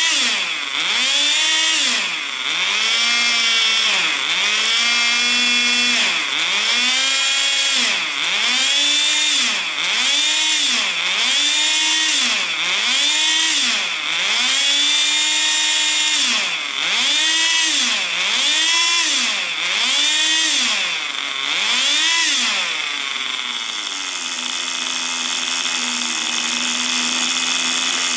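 Small nitro glow engine of a Tamiya TGS 1/10 RC car being revved in quick throttle blips, its pitch rising and falling about once every second and a half. About 23 seconds in it settles into a steady idle.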